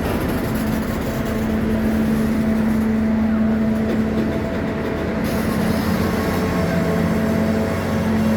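The CP Holiday Train's diesel locomotives and cars running, a steady loud hum over a constant rumble.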